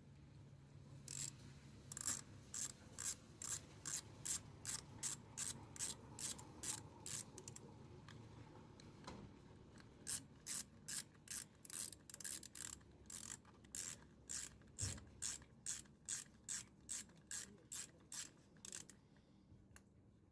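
Socket ratchet wrench clicking in quick back-and-forth strokes, about two a second, with a short pause about halfway through.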